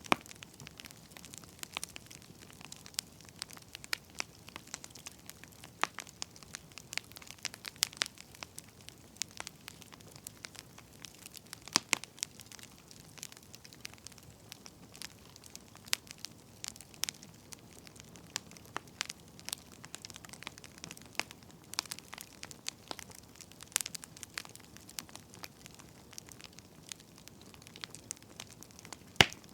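Burning firewood crackling: irregular sharp pops and snaps, several a second, over a soft steady hiss.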